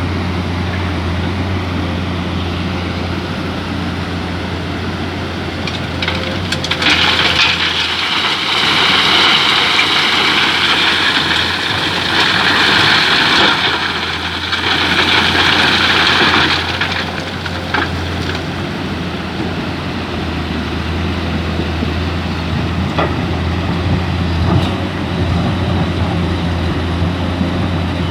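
Mining excavator's diesel engine running steadily under work. From about seven to seventeen seconds in, a louder hissing rush is laid over it.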